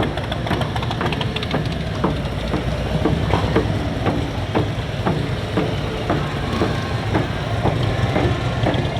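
Motorcycle riding noise: a steady low engine rumble with irregular clicks and knocks.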